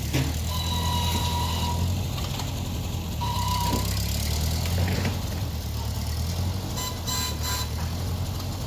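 Engine of a fork-equipped machine running steadily while moving slab wood, with three short high tones and a couple of knocks.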